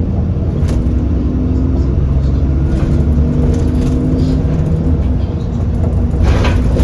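Alexander Dennis Enviro400 Trident double-decker bus heard from inside, its engine and drivetrain running with a steady low rumble and a drone that shifts in pitch, and a brief hiss about six and a half seconds in.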